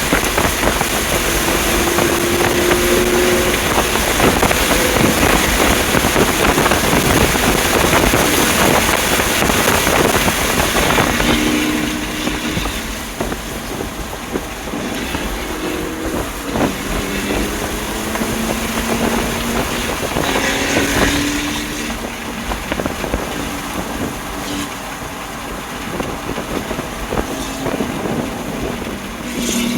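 A 2020 BMW M2 Competition's twin-turbo straight-six driven hard on a race track, its engine note mixed with heavy wind noise. The sound is loudest for the first ten seconds or so, drops about twelve seconds in, where short engine tones step up and down in pitch, and swells again at the end.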